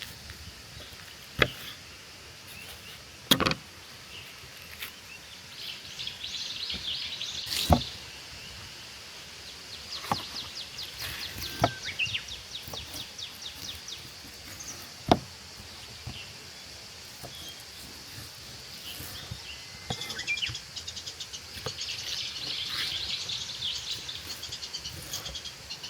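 Small songbirds singing in quick trills of rapidly repeated high notes, coming in three stretches. Half a dozen sharp, isolated clicks or knocks fall between them.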